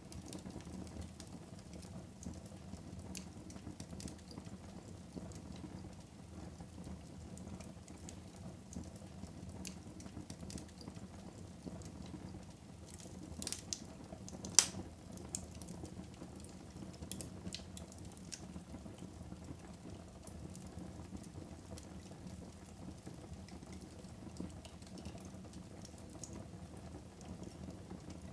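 Wood fire burning in a fireplace: a steady low hiss of flames with scattered sharp crackles and pops, one pop about halfway through louder than the rest.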